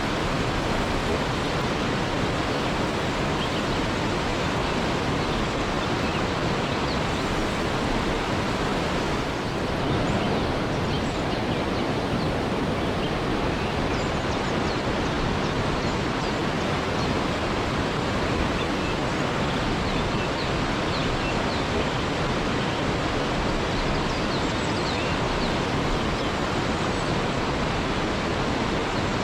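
Waterfall: a steady, even rush of falling water that holds at one level without a break.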